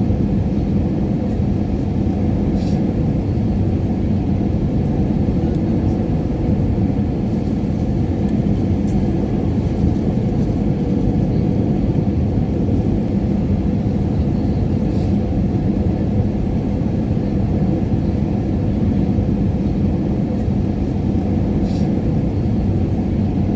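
Airliner cabin noise in flight: a steady, even low rumble of the engines and rushing air, with a faint steady hum underneath and a few faint ticks.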